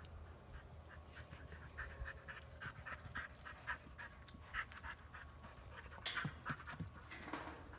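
A dog panting in quick, short breaths, with a few louder noises about six seconds in.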